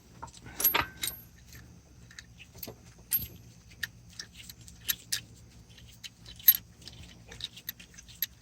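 Scattered sharp metallic clinks and taps of bolts and steel hardware being fitted and wiggled into place, over a faint steady hum.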